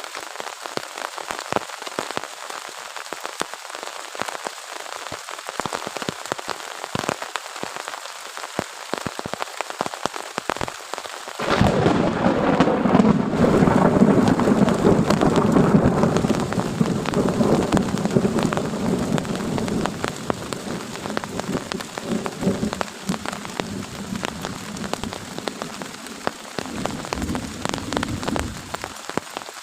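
Heavy rain pouring and pattering on a surface, with dense drop hits. About a third of the way in, thunder breaks suddenly into a long deep rumble that slowly fades away over the next fifteen seconds.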